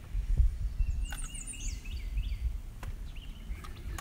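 Wild songbirds calling from the riverbank trees, with a quick run of high, falling chirps about a second in. A low rumble and a few light clicks sit underneath.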